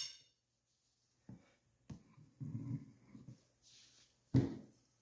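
Faint handling sounds from working on a tire and wheel: a couple of soft knocks, some low rubbing in the middle, then a sharper knock about four and a half seconds in.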